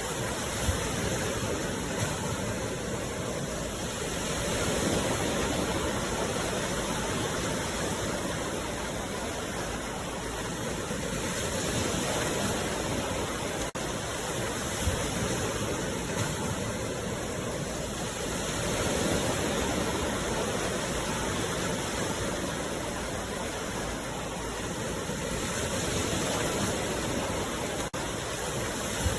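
Sea waves washing onto the shore: a continuous rush of surf that swells and eases about every seven seconds.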